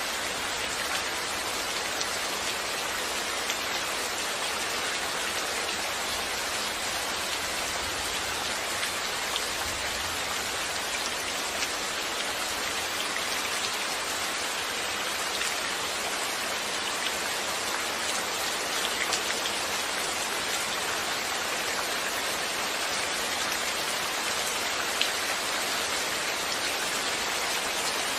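Steady rain falling, an even hiss of rainfall with scattered individual drops ticking on a surface.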